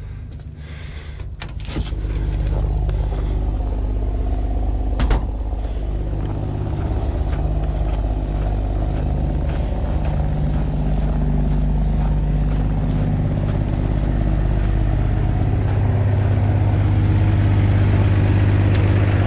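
Heavy truck diesel engine running steadily, getting louder about two seconds in, with a sharp knock about five seconds in.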